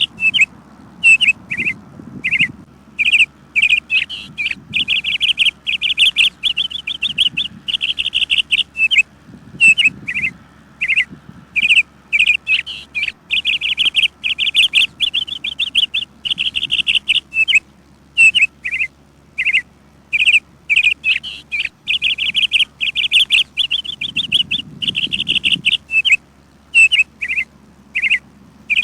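Birds chirping almost without pause: quick, high chirps repeated in rapid runs, some strung together for a second or more, with short gaps between.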